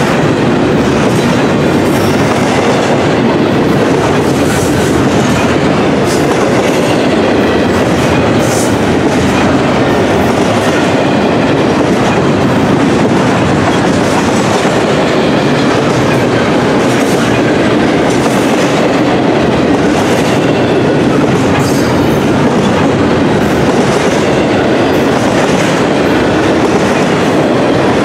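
Double-stack intermodal container well cars rolling past at close range: a steady, loud rumble of steel wheels on the rails, with occasional sharper clicks.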